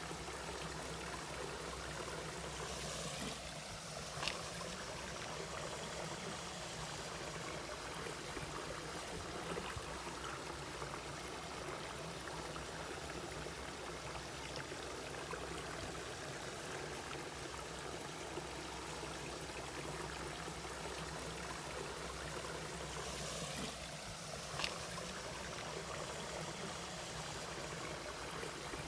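Mountain valley stream flowing steadily over rocks, with a brief sharp splash-like sound about four seconds in and again near the end.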